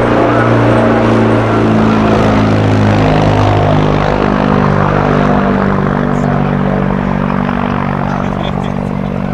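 A car engine running loudly as a steady drone, its pitch easing down slightly a few seconds in and then holding.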